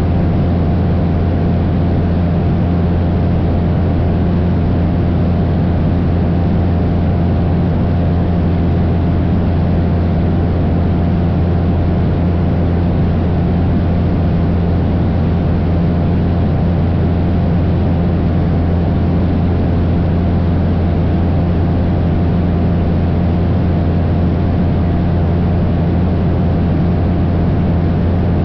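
Cessna 172 light aircraft's piston engine and propeller droning steadily in flight, a constant low hum with a rushing noise over it.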